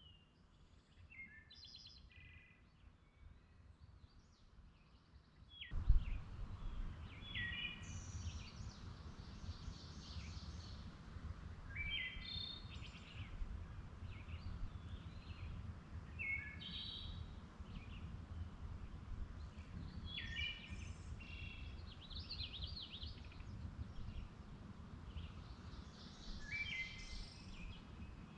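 A songbird singing short, repeated chirping phrases every few seconds. About six seconds in, a steady low rumbling noise comes in abruptly with a brief bump and runs on under the song.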